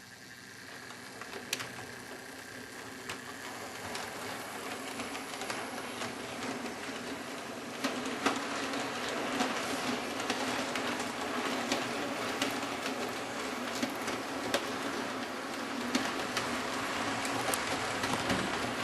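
Hornby model locomotive running on the track: a steady motor-and-wheel hum with scattered sharp clicks of wheels over rail joints, growing louder over the first several seconds as it comes closer.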